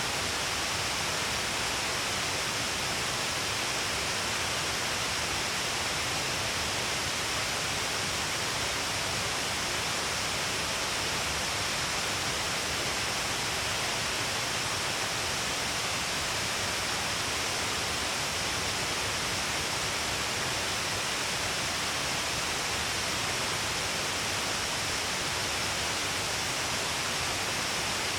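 Shiraito Falls, water falling along the length of a cliff, making a steady, unbroken rush of falling water and spray with no change in level.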